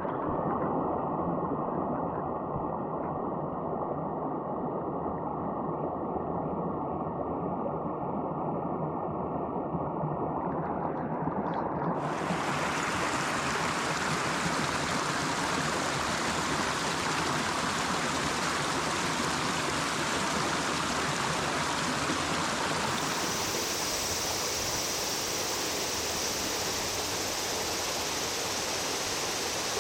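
Mountain stream water running and splashing over rocks, a steady rushing sound. About 12 seconds in it turns abruptly brighter and hissier, and it changes again near 23 seconds, as if moving to a different stretch of stream.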